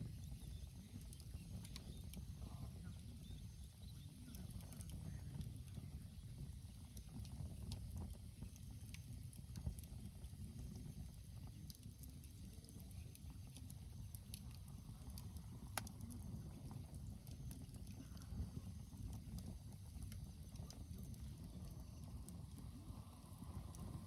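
Wood campfire burning in a Coleman Fire Disk pan, crackling with scattered sharp pops over a low steady rumble.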